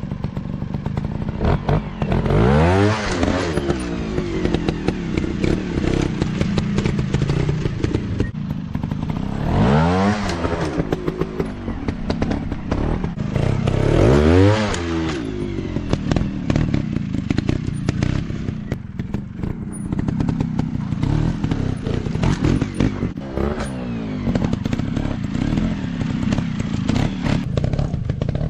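Dirt bike engine running, revved hard three times, its pitch climbing and dropping each time, with clattering knocks in between.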